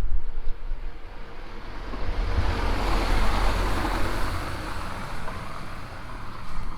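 A car passing on a wet street: its tyre hiss swells up, peaks midway and fades away.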